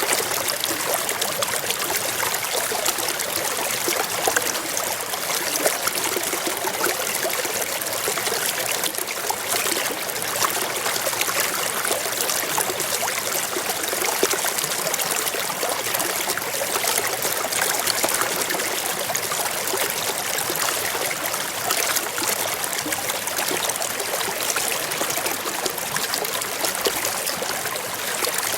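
Forest stream flowing steadily over rocks, a continuous babbling rush of water with fine trickling detail.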